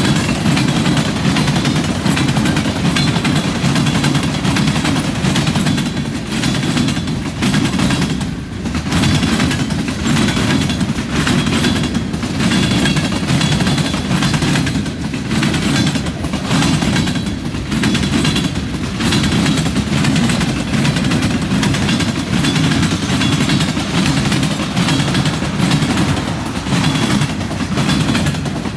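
Freight cars rolling past at close range: a steady rumble of steel wheels on rail with a rapid, irregular clatter and clanking as the wheels cross the junction switch.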